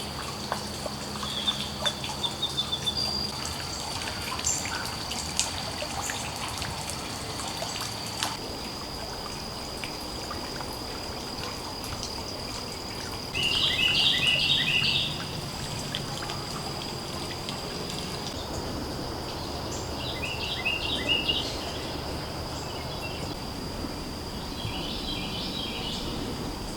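Woodland riverside ambience: water trickling steadily, a steady high insect drone, and birds singing in short bursts of repeated chirps, three of them in the second half, the loudest about halfway through.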